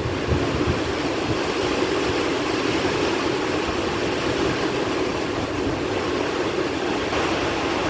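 Heavy rain falling steadily in strong wind, a continuous rushing hiss, with a few low thumps from wind on the microphone in the first second.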